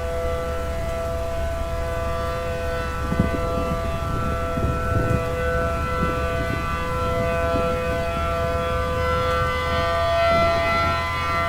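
Outdoor tornado warning siren sounding a steady chord of several tones, with a low rumble underneath.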